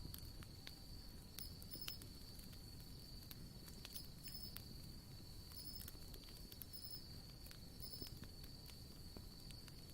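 Faint wood campfire crackling with scattered sharp pops, over a steady high trill of insects.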